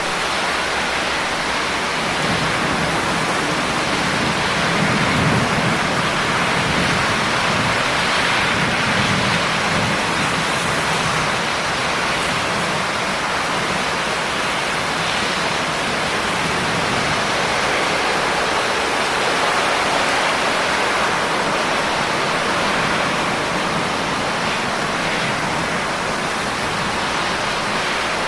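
Steady heavy rain falling, an even hiss of water with a faint low rumble swelling and easing in the first third.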